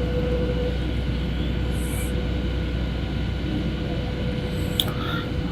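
Steady cabin noise of a Boeing 737 airliner in flight: an even rush of engines and airflow with faint steady tones through it, and one sharp click near the end.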